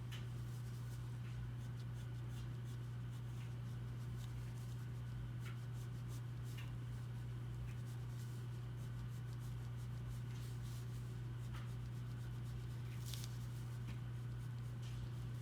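Drawing tool scratching on paper in short, scattered strokes, over a steady low hum.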